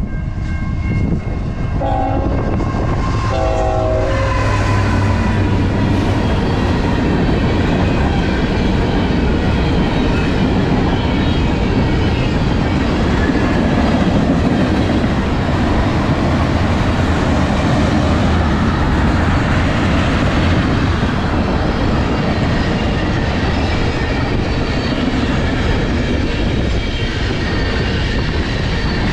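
Train horn sounding two short blasts, then a train passing close by with a steady, loud rumble and wheels clacking over the rails.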